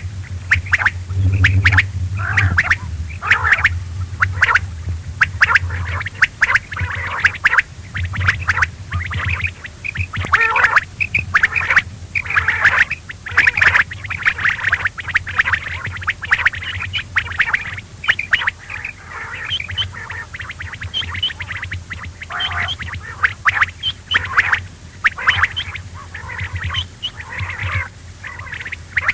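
Quail calling over and over, many short calls in quick succession, with a steady low hum underneath.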